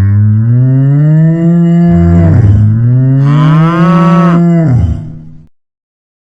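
A cow mooing: one long, low moo that dips and then rises and brightens partway through before fading out about five seconds in. A second moo begins right at the end.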